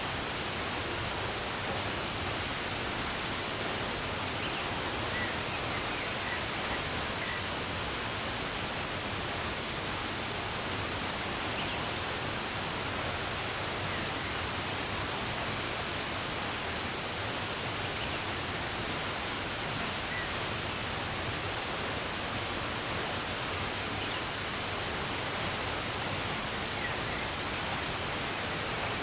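Running water rushing steadily, with a few faint, brief bird chirps now and then.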